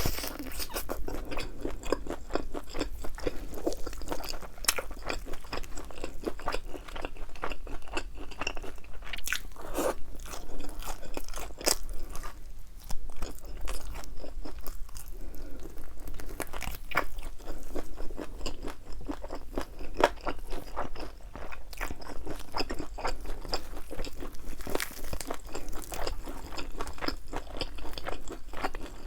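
Close-up biting and chewing of crispy fried chicken wings with thin, crunchy batter: a steady run of crisp crackles and crunches.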